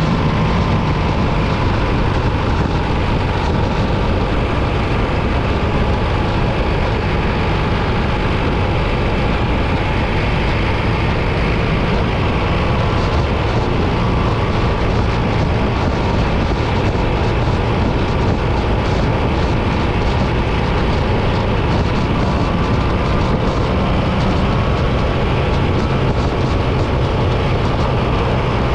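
BMW R 1300 GS boxer-twin engine running steadily under wind and road noise while riding at a constant speed.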